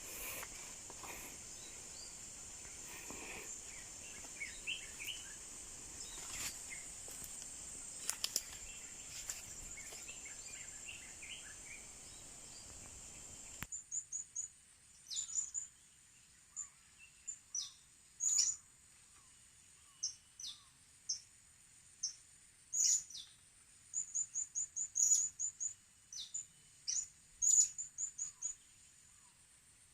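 Sharp, high-pitched chirps of blue-crowned hanging parrots (serindit), short notes repeated singly and in quick runs. For about the first fourteen seconds a steady high hiss with a few faint calls lies under them; it then cuts off suddenly and the chirps stand out clearly.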